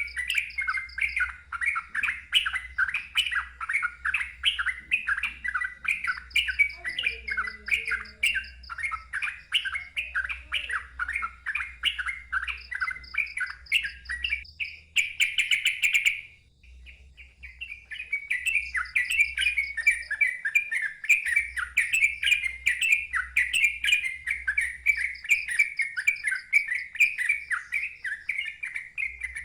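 Sooty-headed bulbul (trucukan) singing a fast, unbroken run of short chattering notes, loud and rapid-fire. The song breaks off for about a second just past halfway and then carries on.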